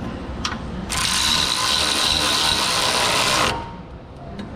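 Power ratchet running steadily for about two and a half seconds, snugging up a suspension control-arm bolt, with a light metal click before it starts and another near the end.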